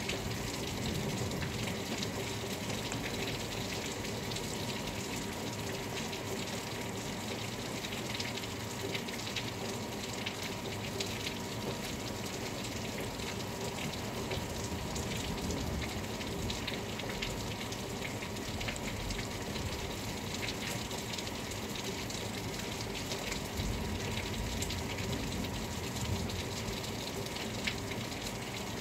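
Steady rain falling, with many small drop taps scattered through it.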